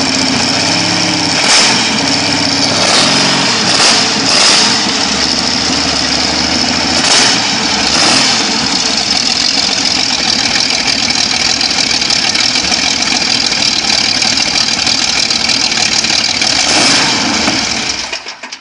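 An engine running loudly and steadily. Its pitch shifts in the first few seconds, there are several short louder surges, and it cuts off abruptly near the end.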